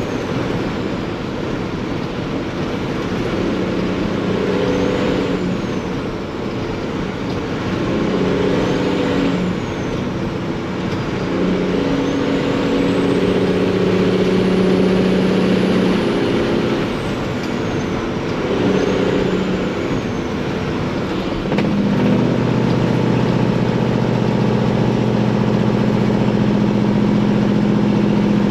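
Freightliner semi's Detroit diesel engine working through the gears, its note climbing and dropping with each shift, with a turbo whistle rising and falling over it. About three-quarters through it settles into a steady, even tone.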